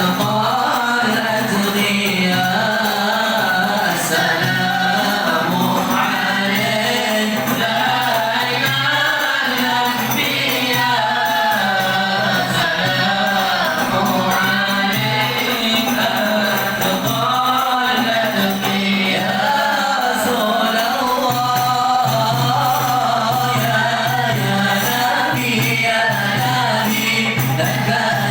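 A group of voices chanting a qasidah together in a continuous devotional melody.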